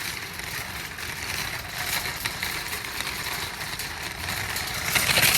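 A metal shopping cart being pushed over pavement, its wheels and wire basket giving a steady rumbling rattle with many small clicks, louder near the end.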